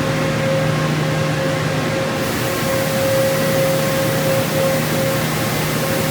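Conveyor car wash tunnel machinery running, a steady motor hum under a wash of spray-like hiss that grows brighter about two seconds in.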